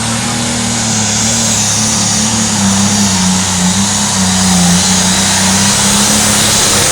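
Pulling tractor's engine running at high revs, very loud, its pitch wavering slightly and the loudness building a little about four seconds in.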